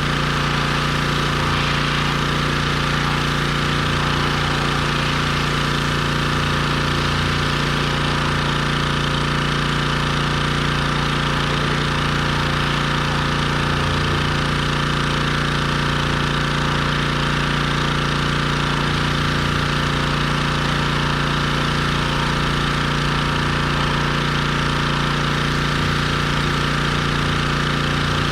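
Pressure washer running steadily, its motor and pump holding an even note without a break.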